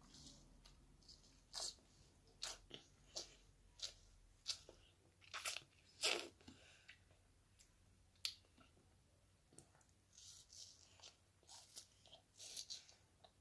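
A toddler biting and chewing watermelon: a run of irregular small crunches and mouth clicks, the loudest about six seconds in.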